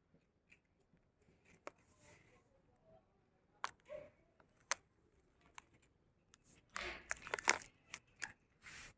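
Scattered sharp clicks and crinkling rustles, with a denser burst of rustling about seven seconds in.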